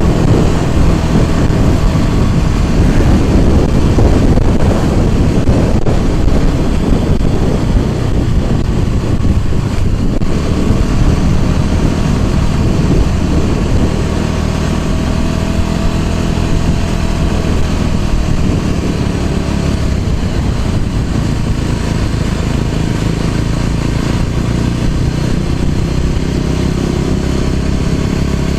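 Small motorbike engine running under way while being ridden, its pitch rising and falling with the throttle.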